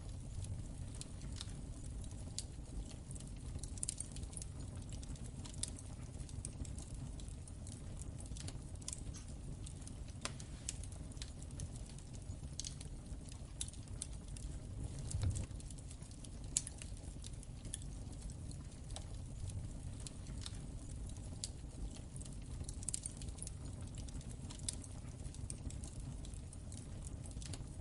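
Wood fire burning in a fireplace: irregular crackles and pops scattered over a steady low rumble of flames, with a louder pop about fifteen seconds in.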